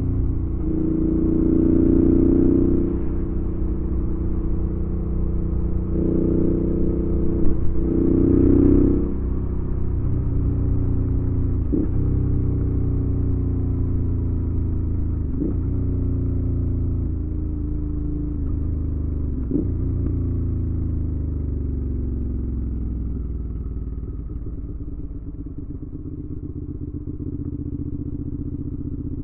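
2019 Suzuki V-Strom 650's 645 cc V-twin through a Delkevic aftermarket exhaust with a carbon-fibre tip, riding under way. It pulls loudly twice early on, then the note breaks and jumps three times, as in gear changes. Near the end it settles into a steadier, quieter run as the throttle eases.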